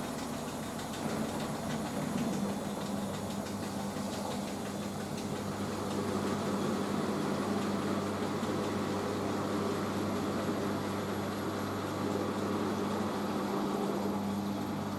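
Hoover H-Wash 500 washing machine running its rinse spin, a steady hum from the motor and drum over a constant whirring noise.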